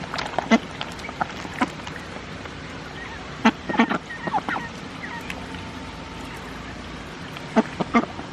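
Backyard ducks quacking in short bursts, in several clusters, with a few faint high chirps between.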